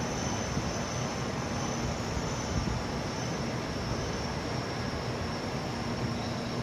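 Shinkansen bullet train moving along the platform: a steady rushing noise with no breaks.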